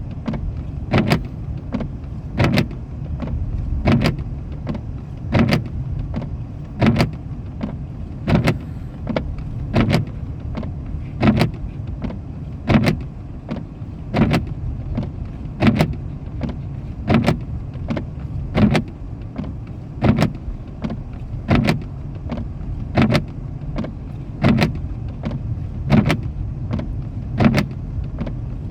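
Windshield wipers sweeping back and forth at a steady pace, knocking at each end of the stroke about every 1.45 s, over the car's steady low engine and road rumble heard from inside the cabin.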